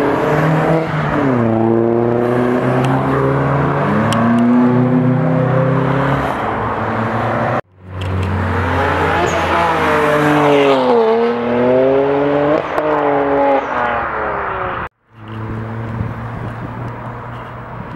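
Three cars in turn pulling away under acceleration: a Mk4 Volkswagen Jetta, a BMW 1 Series, then a Subaru WRX STI with its turbocharged flat-four. Each engine's pitch climbs, drops at a gear change and climbs again. The sound cuts off abruptly twice between cars, and the last car is quieter and steadier.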